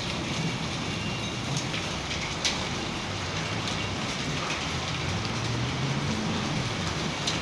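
Heavy rain pouring steadily in a thunderstorm, with a few sharp taps of drops striking a hard surface close by.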